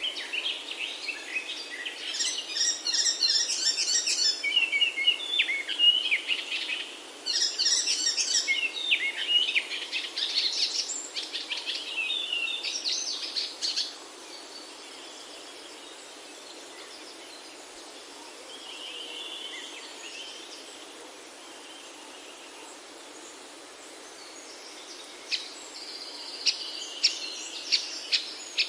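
Songbirds singing in quick, busy phrases for the first half. Then it goes quieter, with a faint trill, and sharp chirps come near the end, over a steady background hiss.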